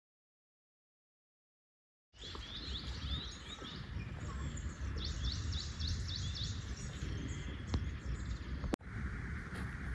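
Dead silence for about two seconds, then outdoor ambience: birds chirping over a steady low rumble, with a quick run of repeated chirps midway. The sound breaks off for an instant near the end, then carries on.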